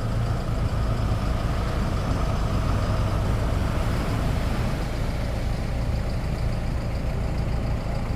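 Beach launch tractor's engine running steadily at a low, even rumble, with no revving.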